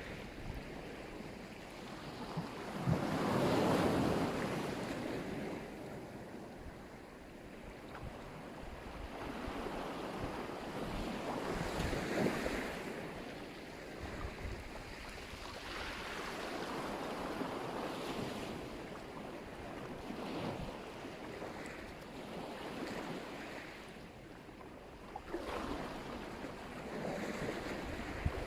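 Black Sea surf: waves breaking and washing up the shore in swells every few seconds, the biggest about three seconds in. Wind buffets the microphone.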